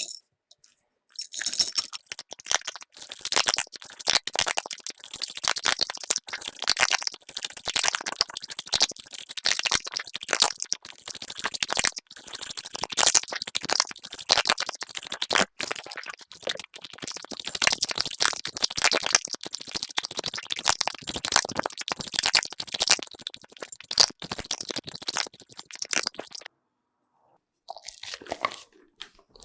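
A dog chewing and crunching food close to the microphone, a dense, irregular run of crunches. It stops about 26 seconds in and resumes more faintly near the end.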